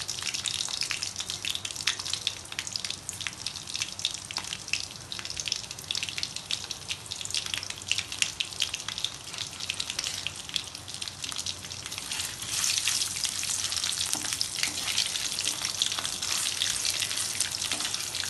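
Raw potato pieces and whole spices frying in hot oil and ghee, a steady sizzle with a dense crackle of small pops that grows louder about two-thirds of the way through.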